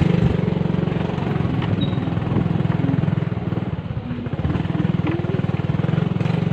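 Motorcycle engine running steadily with a fast, even pulsing, while riding along a rough road.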